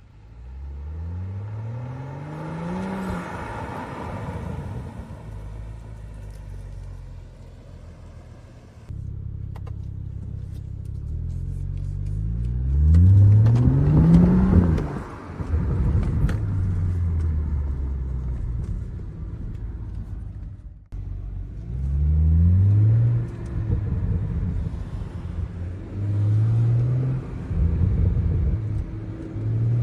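Stock BMW 335i's turbocharged 3.0-litre straight-six under hard acceleration: the engine note climbs several times and drops sharply at each shift or lift-off, with one long falling coast-down in the middle. The loudest pull comes about halfway through, followed by a run of short, quick rises near the end.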